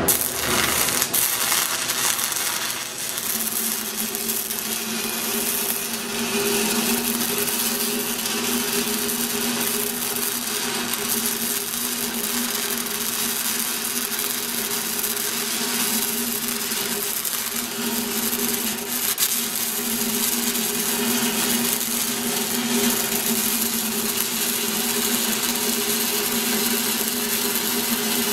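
Stick-welding arc crackling steadily as a downhill weld is run on pipe; the arc strikes right at the start, with a steady hum underneath.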